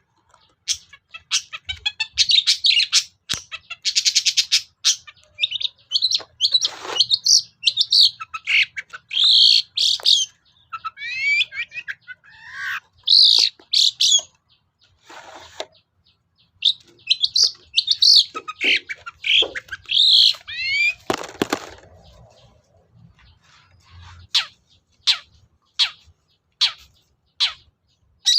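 Long-tailed shrike singing a busy, varied song of chirps, trills, buzzy rattles and harsh notes, with phrases mimicked from other birds. Near the end the song gives way to a run of short, sharp notes, about three every two seconds.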